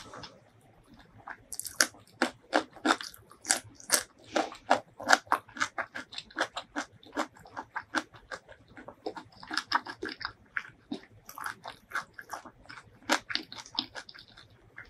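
Close-miked chewing of a mouthful of spicy fried chicken wing, a steady run of crunchy chews about two or three a second, starting about a second and a half in.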